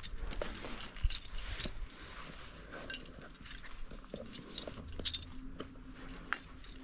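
Climbing hardware handled at an anchor: scattered light metallic clicks and clinks of carabiners and gear.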